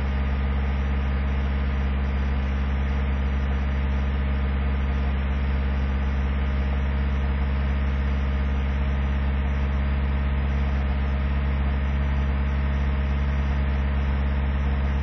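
Truck engine idling steadily while it warms up after a cold start at five below zero.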